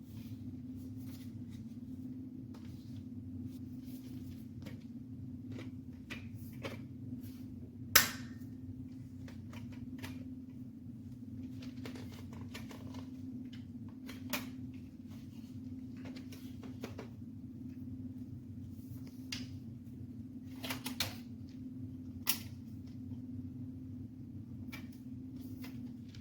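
Dyson Gen5outsize cordless stick vacuum running steadily with a low hum, with scattered sharp clicks and ticks, the loudest about eight seconds in.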